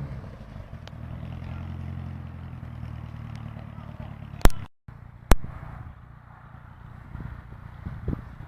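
A car engine running steadily at low revs. A little over four seconds in, it is cut by two sharp clicks under a second apart, with a brief dropout between them. After that only a fainter engine and background noise remain.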